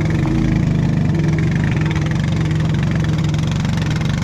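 An engine running steadily at idle, with a constant hum.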